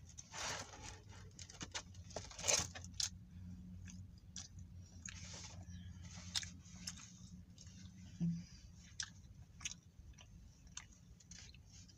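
Close-up chewing and biting of a KFC meal (fried chicken, fries, biscuit): irregular crunchy, wet mouth sounds and clicks, over a steady low hum.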